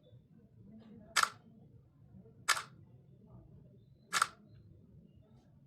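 Samsung Galaxy S24 Ultra's camera shutter sound from its speaker, three short clicks a second or so apart, as photos are taken to test the phone.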